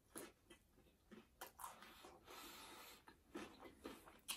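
Faint, close-up chewing of a fried wonton: scattered small crunches and wet mouth clicks, with a slightly longer soft crunching stretch about two seconds in.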